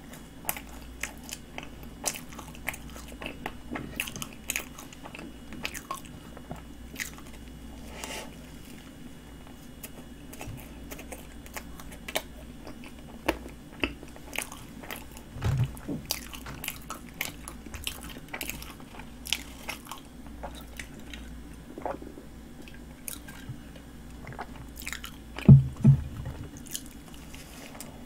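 Close-up eating sounds: a flaky cream-filled pastry being bitten and chewed, with many small crisp crunches and mouth clicks over a steady low hum. A louder low thump comes about halfway through, and two more come close together near the end.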